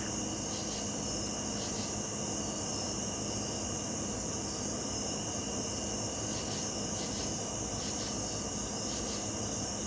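Night chorus of crickets, trilling in a steady, unbroken high band.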